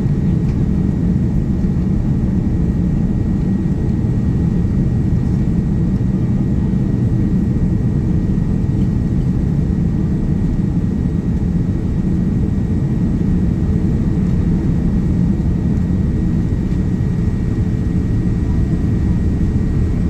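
Steady cabin noise inside a Boeing 787-9 airliner in flight: a low, even roar of the engines and the airflow over the fuselage, with a faint thin steady high tone above it.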